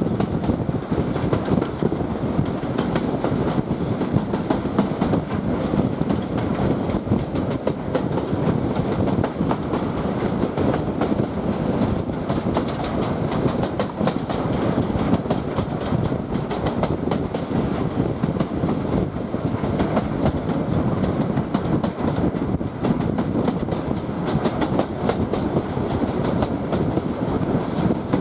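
Heritage railway carriage running along the line, heard from aboard: a steady rumble of wheels on track with a continuous clatter of clicks.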